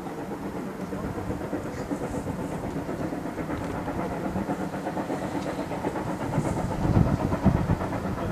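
Steam-hauled train running along the track, its wheels clicking over the rail joints, growing louder about two-thirds of the way in.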